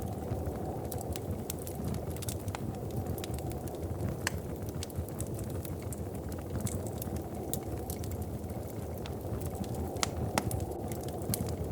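Wood fire crackling, with sharp pops and snaps scattered irregularly over a steady low rumble.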